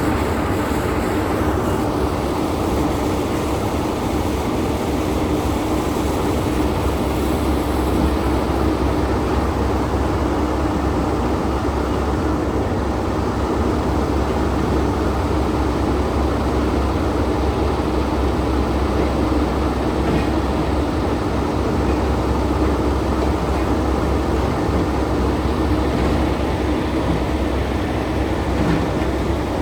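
Logging truck's diesel engine running steadily with road noise, a constant low drone that holds at an even pitch and level throughout.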